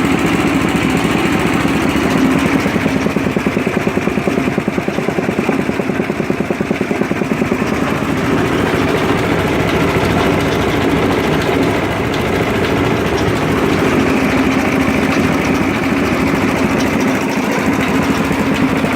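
Ingersoll Rand 2475F11G air compressor running, its gasoline engine driving the pump with a steady, fast chugging.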